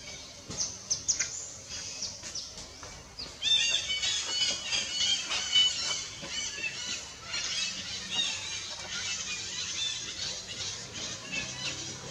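Birds chirping in a dense, overlapping chorus of short high chirps, beginning about three and a half seconds in, with a few sharp clicks before that.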